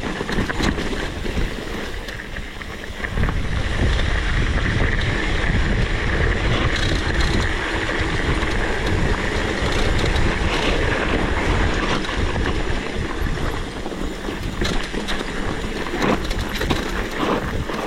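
Mini motorcycle engine running, mixed with wind buffeting the microphone.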